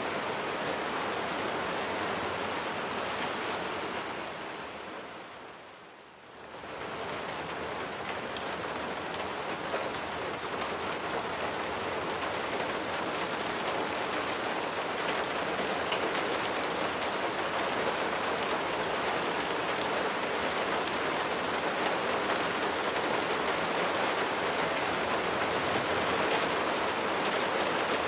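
Steady rain falling, a dense even hiss of drops on surfaces. About five seconds in it fades down briefly and then comes back to full strength.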